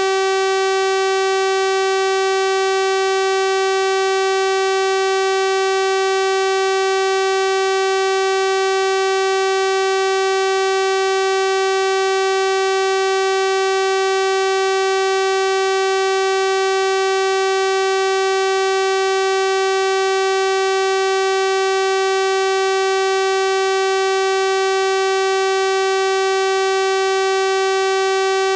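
Synthesized 384 Hz sawtooth-wave tone, held steady and unchanging, with a bright, buzzy edge from its many overtones.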